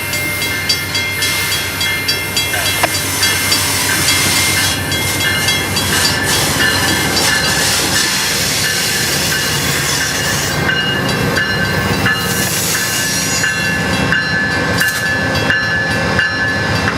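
Amtrak passenger train rolling past at close range, its wheels clicking over the rail joints in a steady rhythm, with a thin, steady high squeal above the rumble.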